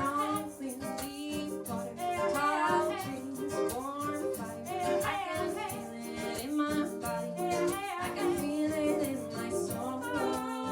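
Two women singing a reggae-style song to a strummed ukulele.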